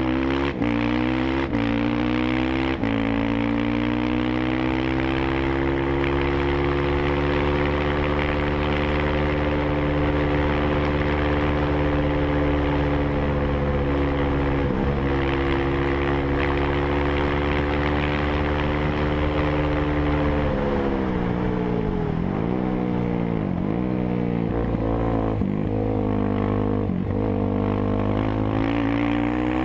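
Motorcycle engine accelerating through a few quick gear changes, then holding steady at high revs for a long stretch. About two-thirds of the way through the revs drop sharply, then dip and rise several times as it slows and downshifts, and they climb again near the end.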